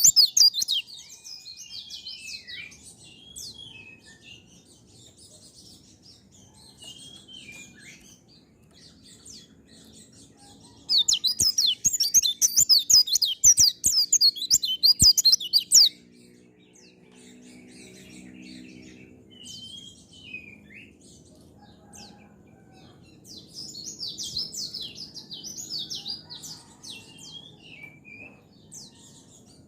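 White-eye (pleci) singing in fast, dense bursts of high twittering: a long loud burst starts about eleven seconds in and runs about five seconds, and another comes later on. Short scattered chirps fill the gaps between the bursts.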